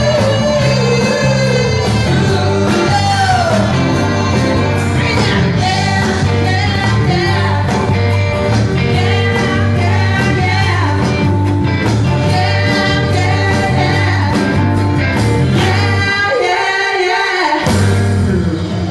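Live rock band playing a song with a lead singer over bass and drums. The bass drops out briefly near the end, then comes back for the closing notes.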